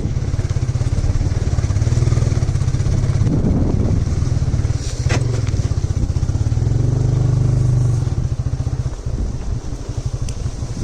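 Small scooter engine running as it rides along, a steady rumble that swells for a moment and then eases off, with a single sharp clack about halfway through.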